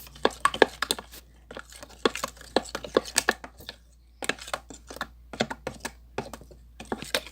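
Clear slime being squished and worked, making quick sticky clicks and pops in irregular clusters, with a brief pause about four seconds in.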